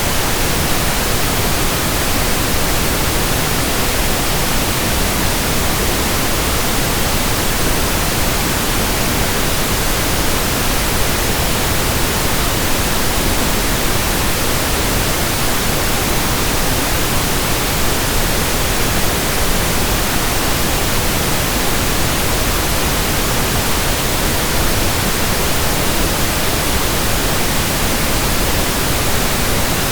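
Steady pink noise: an even, unchanging hiss spread across all pitches, with no rhythm or events.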